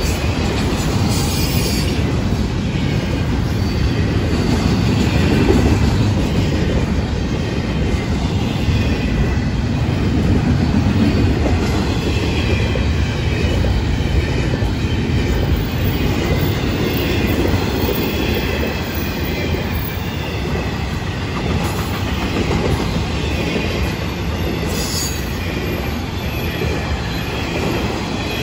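Freight train's autorack and intermodal cars rolling past close by: a steady rumble of steel wheels on rail, with faint high wheel squeal wavering in and out through the middle.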